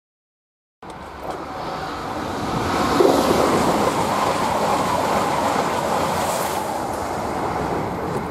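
A passenger train passing close by at speed: a loud rush of wheels on rail and moving air that builds to its peak about three seconds in and eases slightly as the train clears. It cuts in after a moment of silence at the start.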